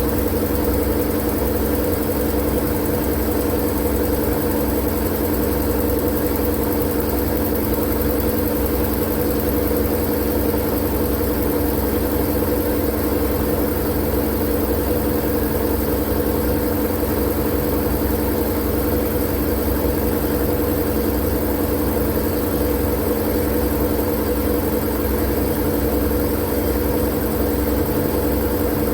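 Steady machine-like drone played as a sleep noise: a low rumble with a constant hum and a high hiss, unchanging throughout.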